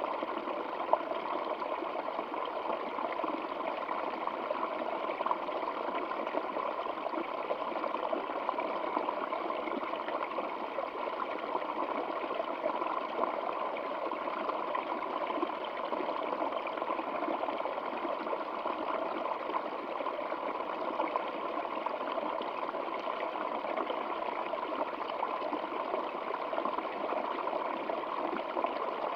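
Stream water flowing, a steady even rush with a light trickle and no pauses.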